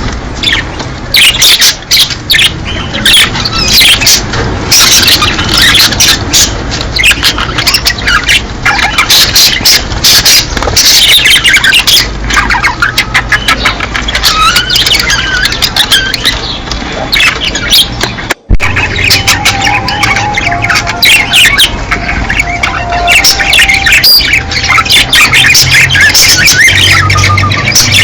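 A flock of budgerigars chattering, with many fast overlapping chirps, warbles and squawks: the breeding-season chatter of budgies. The sound runs over a low hum and cuts out for an instant about two-thirds through.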